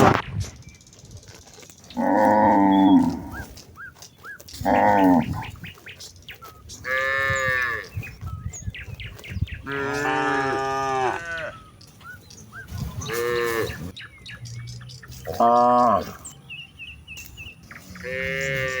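Cattle mooing again and again: about seven long moos of differing pitch, one every two to three seconds, from several cows in a herd. Faint bird chirps come between the calls.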